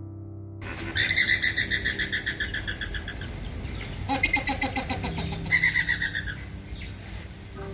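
An animal calling in rapid, pulsed trills, several bouts in a row, starting about half a second in.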